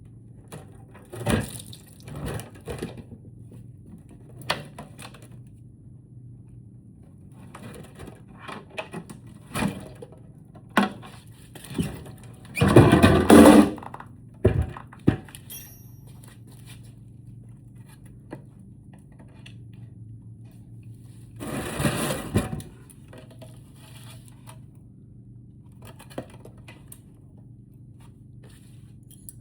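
Scattered clicks and knocks of tools and parts being handled while a lithium trolling motor battery is taken apart. Two longer, louder rattling bursts come about midway and again about two-thirds through, over a steady low hum.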